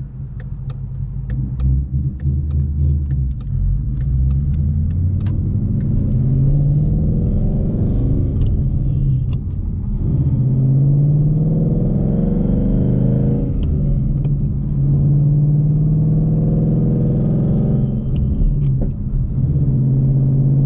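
Car engine accelerating under load, heard from inside the cabin: the revs climb in three pulls, each cut off by a drop in pitch as the manual gearbox is shifted. Scattered sharp clicks and pops in the first few seconds.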